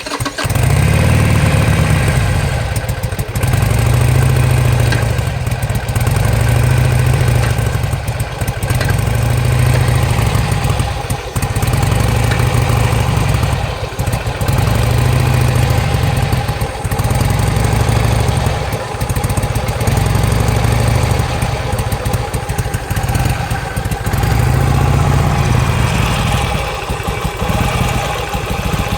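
2007 Harley-Davidson Sportster's V-twin engine running unevenly, its level surging and dipping every two to three seconds. The bike has lost most of its power and backfires and stalls under throttle.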